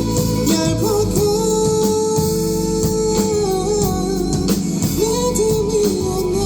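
Live band playing: a voice singing a melody in long held notes over guitar and a steady drum beat.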